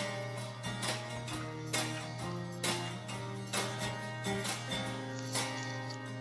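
Acoustic guitar strummed in a steady rhythm: an instrumental stretch of a song, with no singing.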